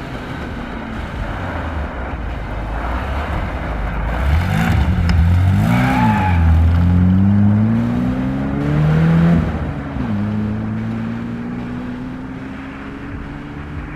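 Rally-raid competition vehicle's engine revving hard and changing gear as it passes close by, loudest in the middle, then accelerating away with a steadily rising note that fades.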